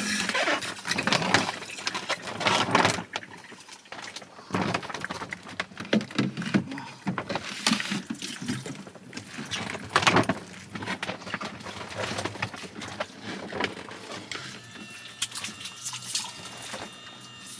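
Water splashing and pouring in irregular spurts, with drips in between.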